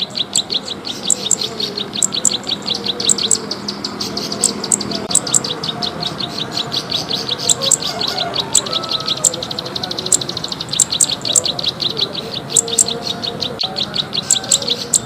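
Bird lure (pikat) recording of a small songbird calling: a fast, steady run of short high clicking chirps, about ten a second, with louder sharp notes now and then.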